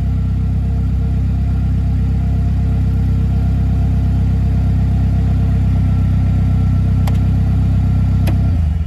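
2015 Polaris Slingshot's 2.4-litre four-cylinder engine idling steadily on a cold start. The sound cuts off suddenly near the end.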